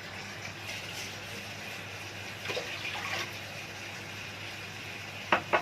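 Water being poured from a cup into a pot of soup, a steady splashing pour. A few sharp clinks near the end, like a cup knocking against the pot.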